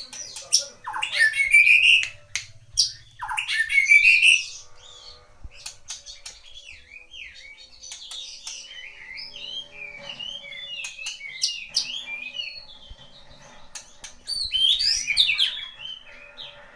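A bird calling. Two loud, rising squawks come early, then a long run of quick, quieter chirps, and another loud flurry of calls near the end.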